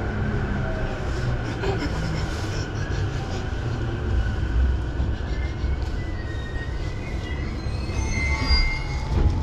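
Sobu Line local commuter train heard from inside, slowing into a station: a steady low rumble from the running gear, with thin high squeals in the last few seconds as it brakes almost to a stop.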